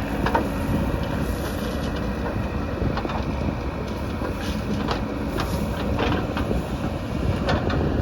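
Backhoe loader's diesel engine running steadily while it loads murum, with a scattering of short sharp knocks and clanks from the working machine and material.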